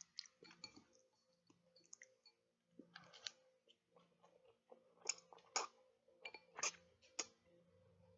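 Close-up chewing of sushi: soft wet mouth clicks and lip smacks, with a few sharper smacks from about five seconds in.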